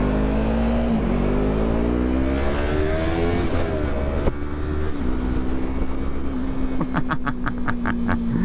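2017 Yamaha YZF-R3's parallel-twin engine under way. About a second in it shifts up, then it climbs in pitch for a couple of seconds, drops off sharply after about four seconds, and then runs at a steady pitch.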